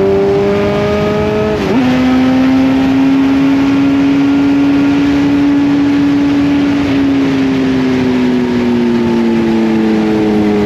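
Kawasaki Z900's inline-four engine under way: it pulls up in revs, drops sharply at a gear change about two seconds in, climbs gently again, then falls slowly in pitch as the throttle eases off near the end.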